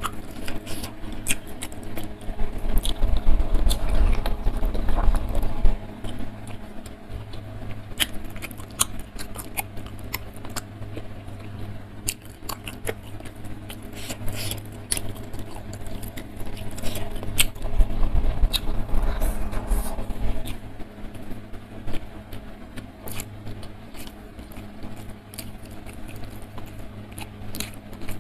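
Close-miked eating: wet chewing, smacking and clicking mouth sounds as mouthfuls of rice and side dishes are eaten by hand, with two louder stretches of chewing. A steady low hum runs underneath.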